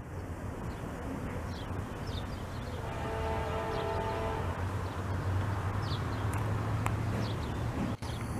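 Norfolk Southern freight train cars rolling past at a distance: a steady low rumble of steel wheels on rail, with a brief squeal about three seconds in. Birds chirp now and then over it.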